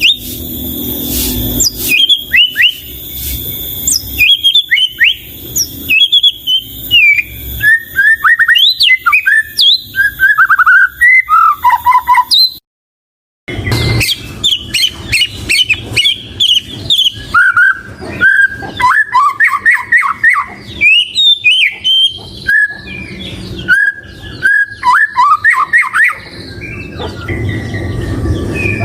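White-rumped shama (murai batu) singing a fast, varied song of short whistled notes that sweep up and down. The song breaks off completely for about a second near the middle, and stops a few seconds before the end, leaving a steady low noise.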